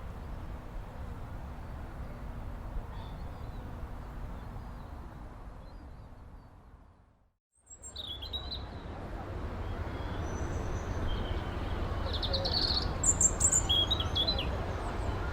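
Steady low rumbling background fades out to silence about halfway through, then a new outdoor recording fades in. In it, birds chirp over a steady low rumble, busiest near the end.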